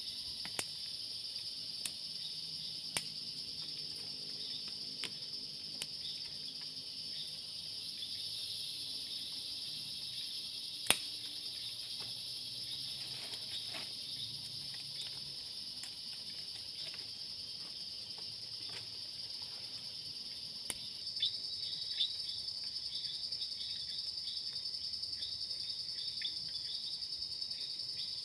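Steady high-pitched chorus of forest insects, cricket-like trilling without a break, with a few scattered sharp clicks, one louder about eleven seconds in.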